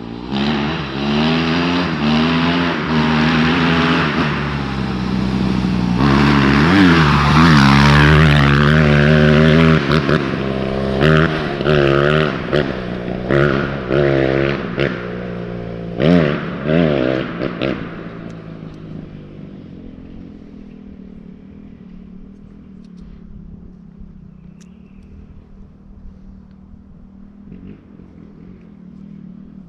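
Suzuki RM-Z dirt bike engine running hard and blipped up and down in about half a dozen quick revs. After about 18 seconds the engine sound fades to a faint low drone as the bike moves away.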